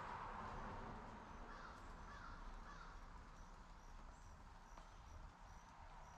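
Faint outdoor ambience: the tyre hiss of a passing car fades away over the first second. A bird gives a few short calls about two seconds in, with small high chirps after.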